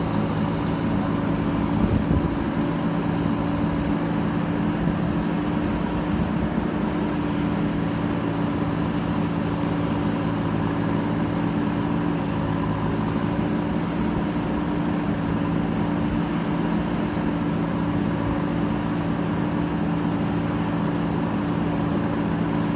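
JCB backhoe loader's diesel engine running steadily at a constant speed, with a brief knock about two seconds in.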